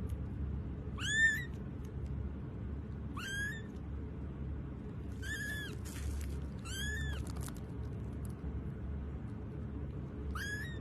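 A cat meowing: five short, high-pitched meows a couple of seconds apart, over a steady low hum.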